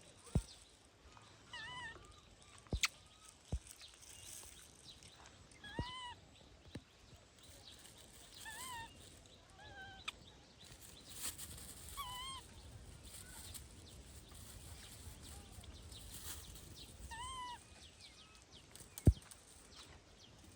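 Baby monkey giving short, high calls that each rise and fall in pitch, about six of them spread out, with sharp knocks in between; the loudest knock comes near the end.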